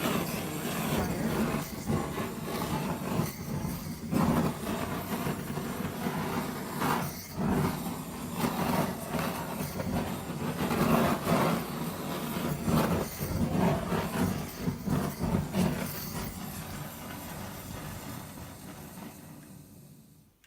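Handheld butane torch flame blowing over a wet acrylic pour, a steady gusty rumbling hiss that rises and falls as the flame is moved. It fades over the last few seconds and then cuts out.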